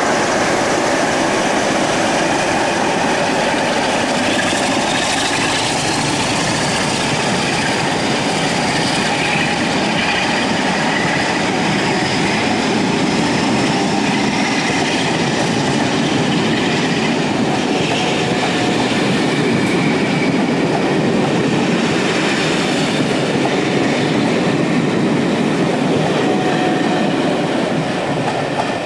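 Locomotive-hauled passenger train rolling past at close range, its coach wheels clattering over the rail joints, with faint high wheel squeal. The noise is steady and loud, then starts to fall away near the end as the last vehicle passes.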